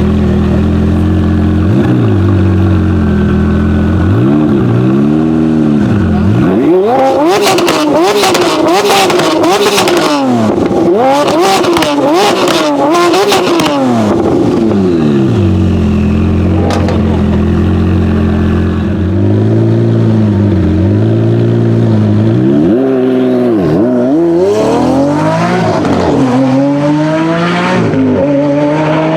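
Lamborghini Aventador V12 idling, then revved repeatedly in short blips, with sharp exhaust crackles during the middle run of revs. Near the end the engine rises steadily in pitch as it accelerates.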